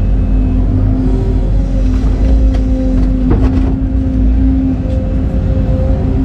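Heavy excavator's diesel engine running steadily with a held whine, and a few short knocks around the middle.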